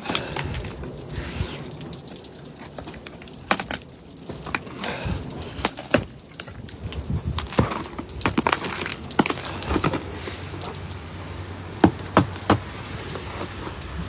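Ice being chipped and cracked off a car: irregular sharp cracks and knocks, with a few louder strikes near the end.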